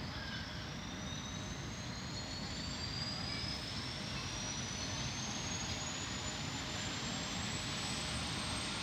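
Rescue helicopter's turbine engine spooling up during start-up: a steady rush under a high whine that climbs steadily in pitch as the engine gains speed.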